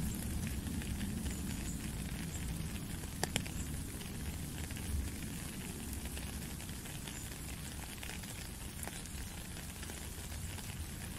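Steady rain falling on a puddle and wet gravel, a dense hiss of many small drop impacts over a low rumble, with a sharper single drip about three seconds in.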